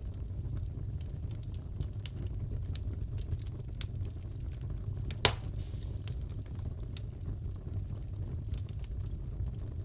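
Crackling fireplace: a steady low rumble of the fire with scattered sharp crackles and one louder pop about five seconds in.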